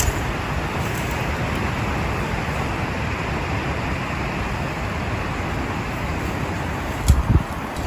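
Heavy rain falling in a steady, dense hiss, with two dull low thumps near the end.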